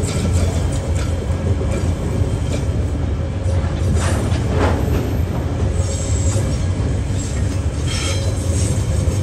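Loaded container flat wagons of a freight train rolling past close by: a steady heavy rumble of steel wheels on rail, with short high wheel squeals breaking in several times, the loudest a little after the middle.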